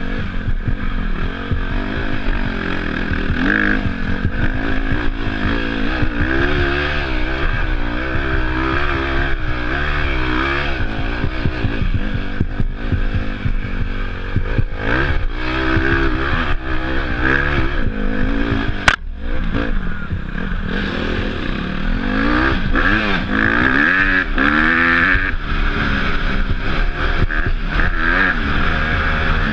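Off-road dirt bike engine revving up and down again and again as it rides, over a constant low rumble, with one sharp click about two-thirds of the way through.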